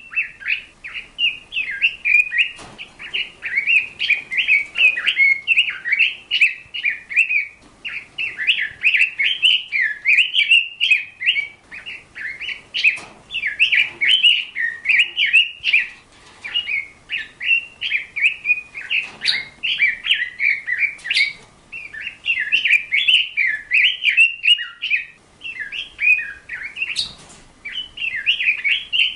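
A bird chirping in long runs of quick, high notes, broken by brief pauses.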